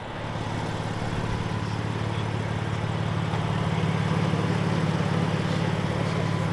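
A car engine running with a steady low hum that grows louder over the first few seconds, then holds.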